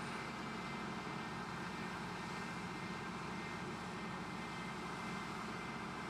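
Steady machine hum of a 5-axis CNC woodworking center running, even throughout with no distinct cuts or impacts.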